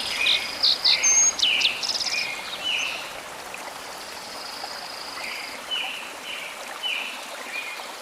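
Small birds calling in repeated short chirps, with a few quick downward-sliding whistles about a second in, over the steady rush of a running stream.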